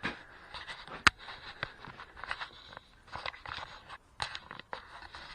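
Irregular scrapes and clicks from someone moving about and handling things, with one sharp click about a second in.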